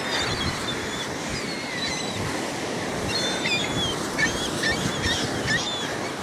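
A flock of birds calling: many short, high chirps and squeaky gliding calls, thickest in the second half, over a steady rushing noise.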